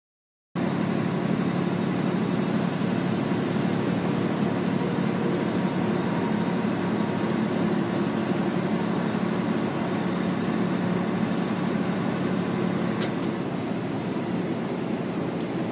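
Steady road and engine noise of a moving vehicle, starting abruptly about half a second in, with a couple of faint ticks near the end.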